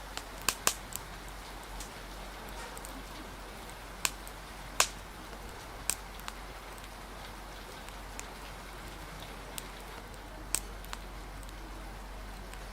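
Ambience of steady rain with the sharp, irregular pops and crackles of a wood fire, a dozen or so snaps scattered over the steady hiss, the loudest about a second in and near five seconds in.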